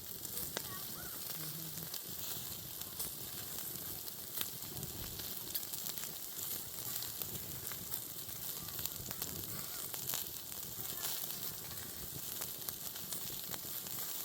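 Lamb kebab sizzling over an open fire: a steady hiss dotted with many small crackles.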